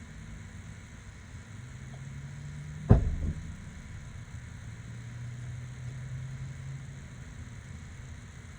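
A single sharp knock about three seconds in, over a low, steady engine hum from a vehicle running in the background.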